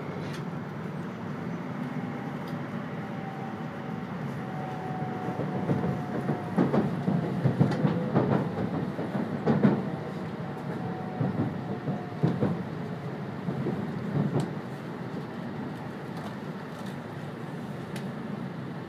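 Running noise heard inside an E2 series Shinkansen car: a steady rumble, with a run of knocks and clatters from the wheels and track in the middle that rise above it.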